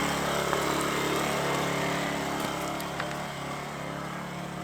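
Lifan ESI860i-CA 40cc inverter generator's small four-stroke engine running at a steady speed, growing gradually fainter, with a few light clicks.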